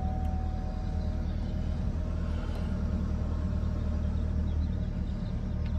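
Steady low rumble of an idling vehicle engine, with a faint steady tone that fades out about a second in.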